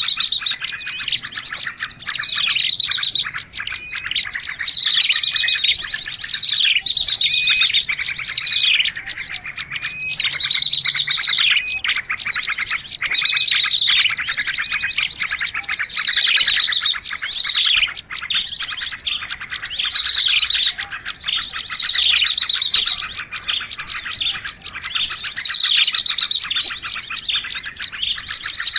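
Lure recording of small songbirds calling: fast high trills and whistles that sweep downward, repeating in a steady pattern about every two seconds.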